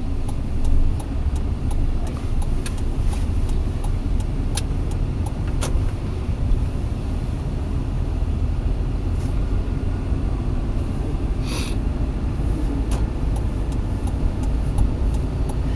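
Car engine and road rumble heard from inside the cabin while driving, with scattered light clicks and rattles and a brief hiss about eleven seconds in.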